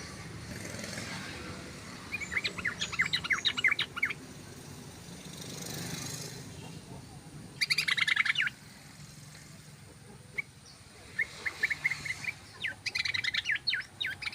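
Yellow-vented bulbul (trucukan) singing its rapid chattering song in three bursts of quick repeated notes, the last one the longest.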